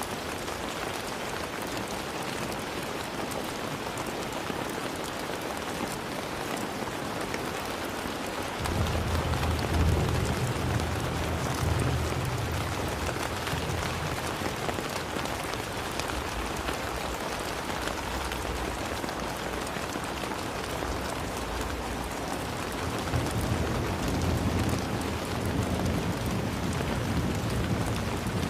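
Steady heavy rainfall falling and pattering on surfaces. A low rumble comes in suddenly about nine seconds in, fades out, and returns near the end.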